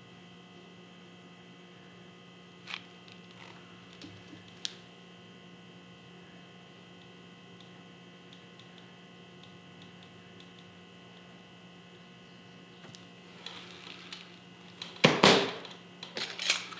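Steady electrical hum with a few faint clicks, and a brief loud noise near the end followed by light taps.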